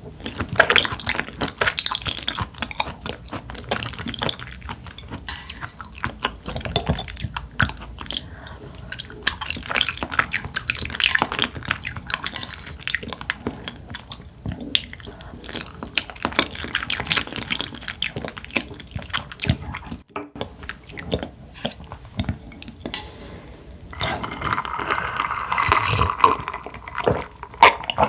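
Close-miked eating sounds: wet chewing with many small clicks and lip smacks. A hissing, wetter stretch comes about four seconds before the end.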